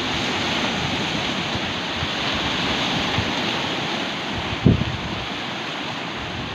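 Heavy surf rushing and washing steadily on the shore, with a brief low thump about two-thirds of the way through.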